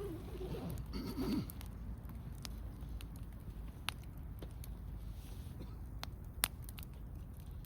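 Wood fire crackling, with sharp pops a few times, the loudest about six and a half seconds in, over a low steady rumble. A faint wavering sound is heard in the first second and a half.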